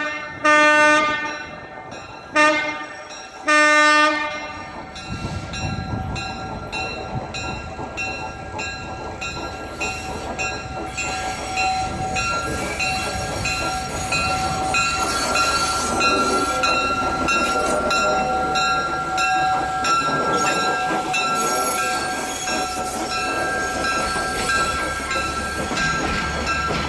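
A locomotive horn sounds three blasts in the first four seconds. Then a train rolls along with a rhythmic clicking of wheels over the rail joints and a steady high-pitched tone over it, growing louder.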